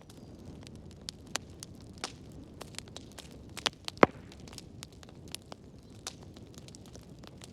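Wood fire burning in a fireplace, crackling with irregular sharp pops over a low steady rumble; one loud pop about four seconds in.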